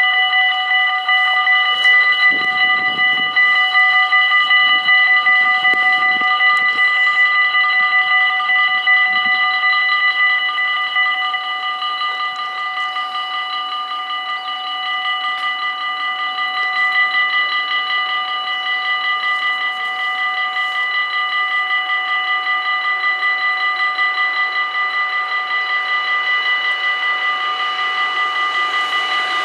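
Dutch level-crossing warning bells ringing: a rapid, steady ringing in several pitches that runs on unbroken. In the last second or so the rising noise of an approaching train begins to come through.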